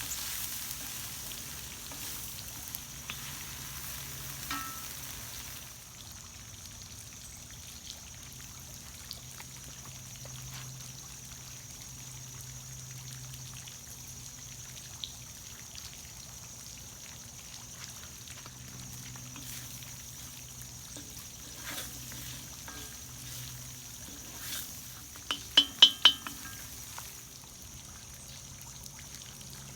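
Stir-fry sizzling in a cast iron wok, louder for the first several seconds and then quieter. About 25 seconds in, a quick run of sharp metal clinks rings out as a utensil strikes the wok.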